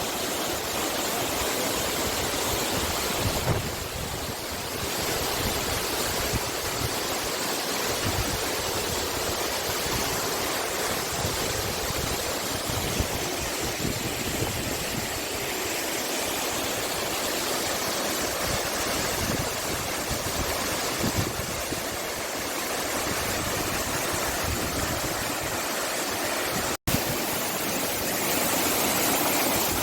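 Rushing water of a stream, a steady loud rush that cuts out for an instant near the end.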